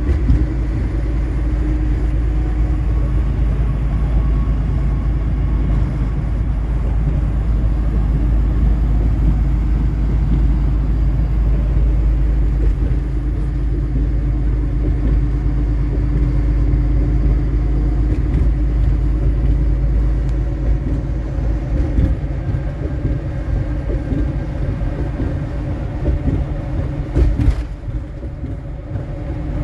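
Kenworth T680 semi-truck cruising at highway speed, a steady low drone of diesel engine and road noise heard from inside the cab. A single sharp knock sounds near the end.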